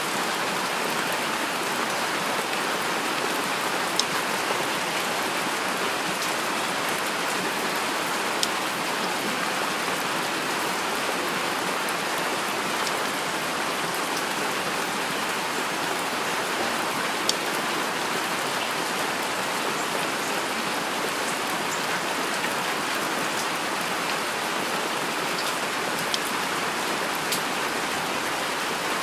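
Heavy rain falling steadily, an even hiss of rainfall with a few sharper single drops tapping out above it now and then.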